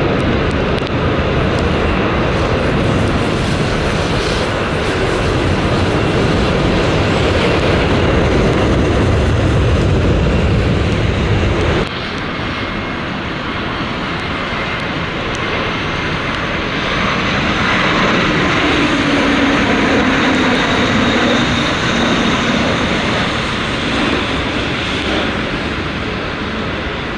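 Jet airliner engines heard during a landing approach in strong wind. A heavy low rumble fills the first half and cuts off abruptly about twelve seconds in. After that the engine noise goes on with a whine, and a tone slides down in pitch in the later part.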